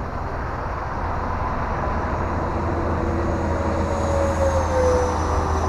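Electric ducted-fan motor of an E-flite F-15 Eagle RC jet in flight: a rushing whine that grows louder, its tones dipping slightly in pitch about four to five seconds in.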